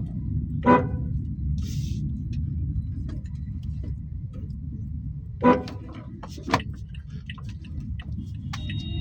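Steady low road and engine rumble of a car driving in city traffic, heard from inside the car, with short car-horn toots: one about a second in, another about five and a half seconds in, and a shorter one just after.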